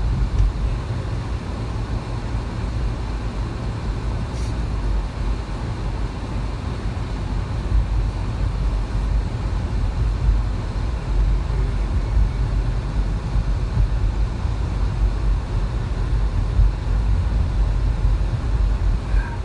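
Steady road and engine noise of a moving car heard from inside the cabin, a low, even rumble.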